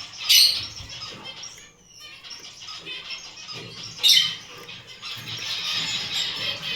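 Gouldian finches calling with high, chattering chirps, louder twice: about half a second in and again about four seconds in.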